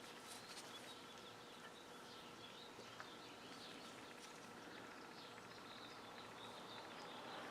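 Near silence: faint room tone with a faint steady hum and faint high chirping in the background, and one light tick about three seconds in.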